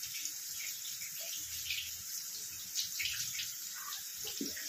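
Chopped onions and green chillies sizzling in hot oil in a pan as they fry toward brown: a steady hiss with fine, irregular crackles.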